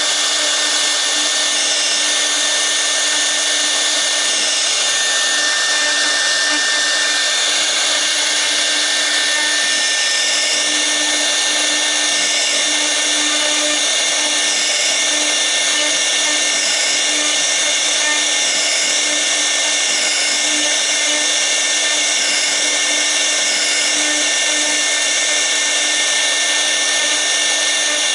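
CNC router's 6 kW air-cooled spindle whining at a steady high speed while the V-bit carves, with a constant hiss of cutting and the cooling fan. A faint regular wavering in the upper hiss, about once a second, sets in about ten seconds in.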